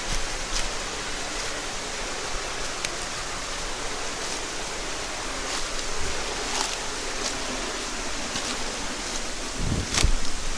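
Mountain headwater stream flowing in a steady rush, with scattered small splashes. A louder low thump comes near the end.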